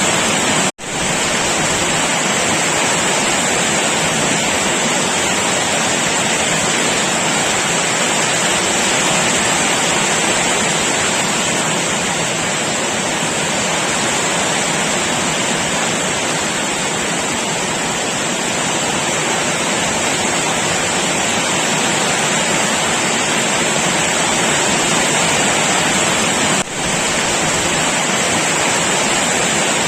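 Heavy rain pouring down steadily, a dense, even hiss with no pattern. It drops out for a split second about a second in and dips briefly near the end.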